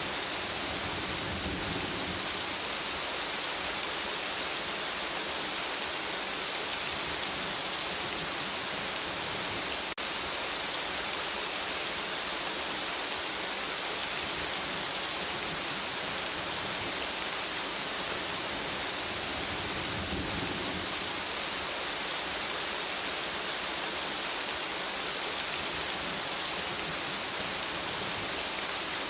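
Steady rain falling on forest foliage, an even hiss of many drops, with a faint low rumble about a second in and again around twenty seconds.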